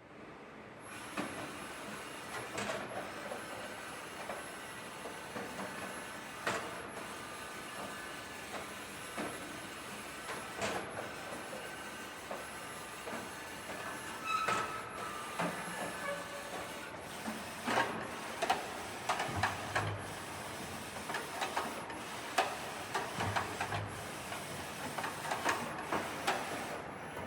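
Okuma Howa MILLAC-611VL vertical machining center running its basic axis movements. A steady mechanical running noise with several held tones, broken by irregular clicks and clunks.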